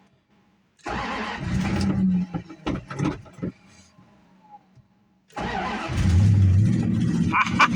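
1986 Dodge D-150's carbureted engine being cranked cold with no choke: it cranks and sputters for a couple of seconds, then stops. About five seconds in it cranks again, catches and keeps running. It is slow to start because fuel had to be drawn up to the carburetor after the truck sat for days.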